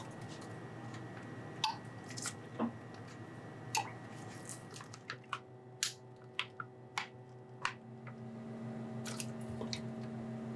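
Scattered sharp clicks and taps from kitchen or tableware handling, about a dozen over several seconds, over a low steady hum.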